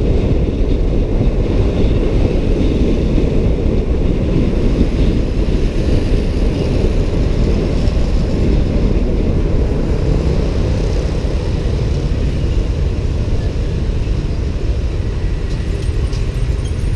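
Steady rumble of riding a motorbike in traffic, with wind buffeting the microphone.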